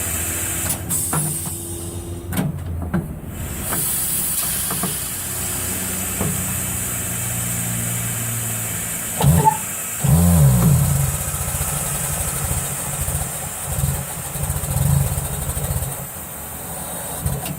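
Steady motor hum of an air compressor running, with metallic knocks and clanks of work on a tire changer during the first few seconds. About nine seconds in there is a louder burst of machine noise that wavers in pitch.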